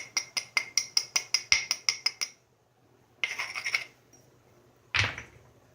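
Stone ticking against stone in quick light strokes, about five a second, as a hammerstone preps the striking platform on the edge, then a short flurry of the same. Near the end comes a single heavier percussion strike with a hammer on the stone.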